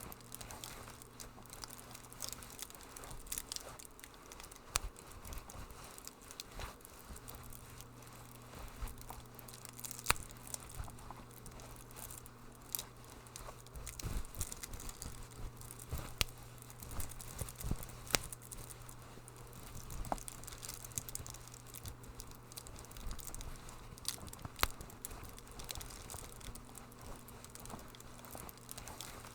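Wood fire crackling in a fireplace: irregular sharp pops and snaps, a few louder than the rest, over a soft hiss and a steady low hum.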